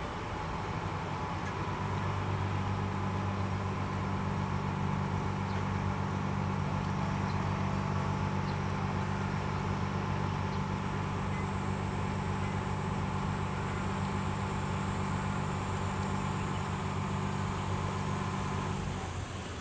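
Small ferry's diesel engine running steadily: a low, even hum that dies away near the end, with a faint high whine joining about halfway through.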